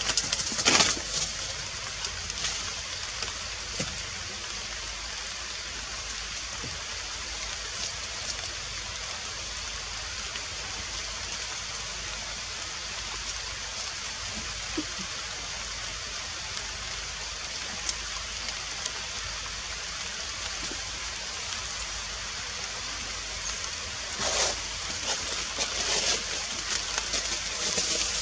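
Steady rain falling on tree foliage, an even hiss, with a few louder spells of patter about a second in and near the end.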